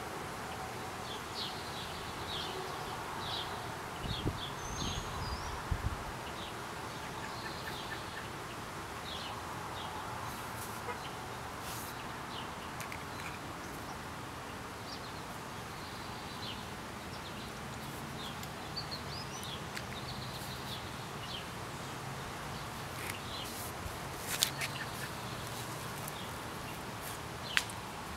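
Small birds chirping on and off over steady outdoor background noise, with two sharp clicks near the end.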